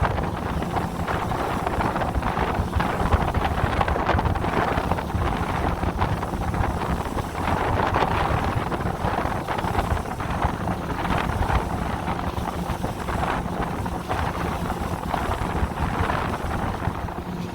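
Wind buffeting the microphone over the steady hum of a boat's motor and the rush of water as the boat runs at sea.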